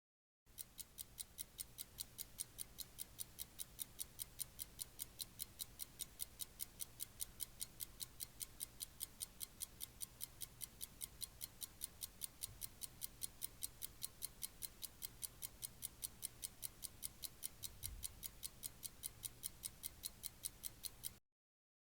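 Stock clock-ticking sound effect: a steady, fast run of sharp, faint ticks at an even pace, with a faint low hum beneath.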